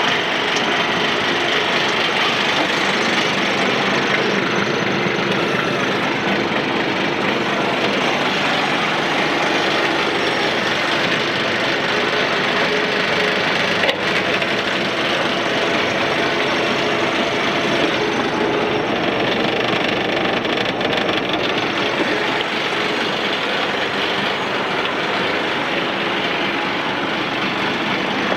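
1996 International 4700 feed truck's engine running steadily, with one sharp click about halfway through.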